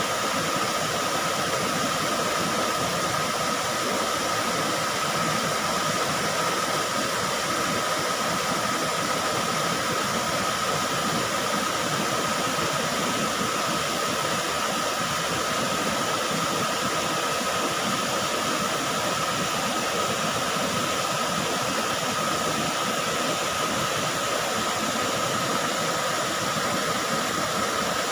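Waterfall: falling water rushing steadily and evenly, with a steady pitched note running through the rush.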